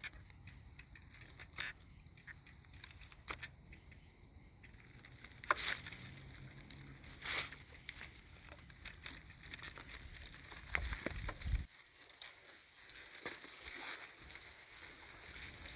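Bicycle being ridden along a trail: scattered rattles, clicks and crunching from the bike and tyres, with a low wind rumble on the microphone that cuts off suddenly about twelve seconds in.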